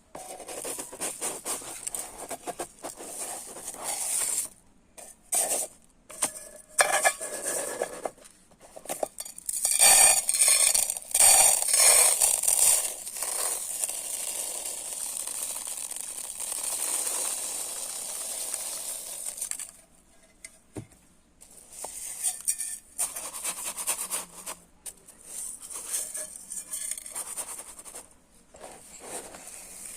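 Dry rice grains being scooped and poured: short bursts of rattling, rustling grain, with one longer steady pour lasting several seconds in the middle.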